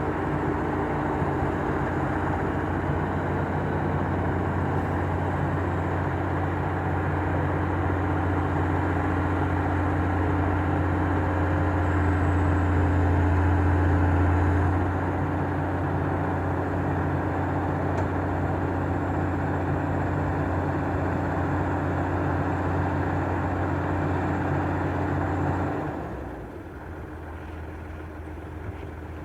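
Excavator's diesel engine running steadily, a little louder about twelve to fifteen seconds in, then dropping suddenly to a quieter, lower run about twenty-six seconds in.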